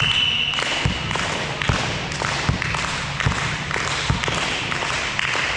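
A referee's whistle sounds once at the start and lasts about a second. A run of thuds follows, roughly every 0.8 s, with lighter taps between them.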